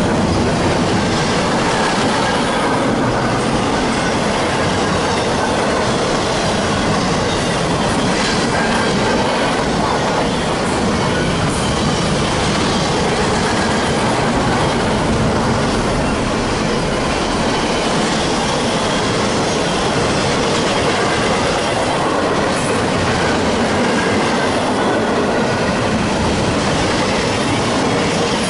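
CSX double-stack intermodal freight train's container well cars rolling past on the adjacent track: a loud, steady rush and rumble of steel wheels on the rails.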